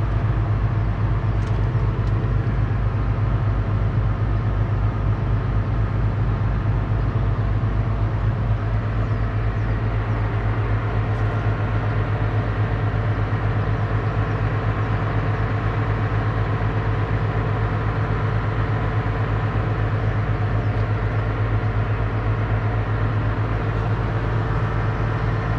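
Claas Ares 656 RZ tractor's 6.8-litre six-cylinder diesel engine running at a steady speed with an even low hum, with no revving or change in pitch.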